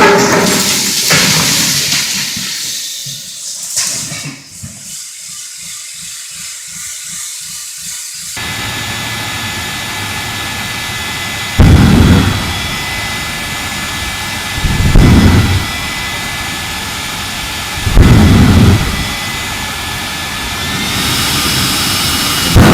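A loud rushing noise fades over the first seconds into a low pulsing that cuts off about a third of the way in. Then a jet engine runs with a steady hiss and high whine, surging loudly three times a few seconds apart.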